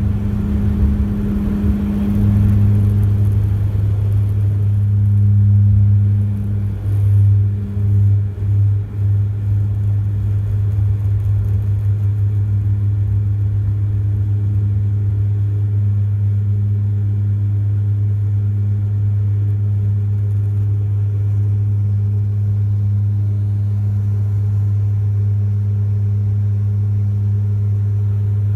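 Bombardier Dash 8-400 turboprop running at takeoff power, its Pratt & Whitney PW150A engines and six-blade propellers giving a steady low propeller drone with a second tone an octave above. A few seconds in, the drone swells and dips in several deep pulses, then settles to an even drone.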